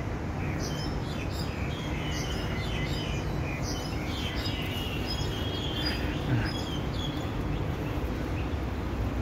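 Small birds chirping and twittering in quick, overlapping short calls, over a steady low background rumble.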